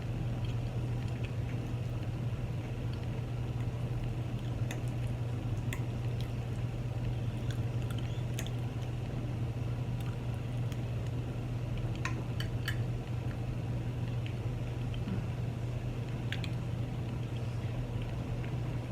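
Close-up eating sounds: soft chewing of chili cheese fries, with scattered short clicks, over a steady low hum.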